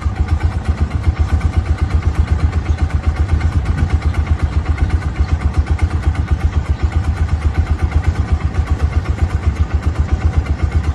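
An engine running with a rapid, even beat of about nine pulses a second, heavy in the low end; it cuts off suddenly at the end.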